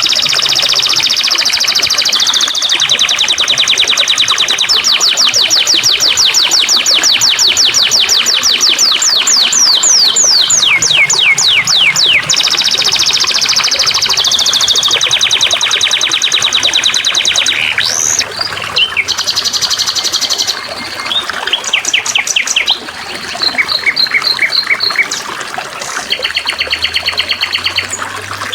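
Small songbirds singing in fast trills of repeated high, sweeping notes, the pattern changing every few seconds, over a faint steady trickle of water.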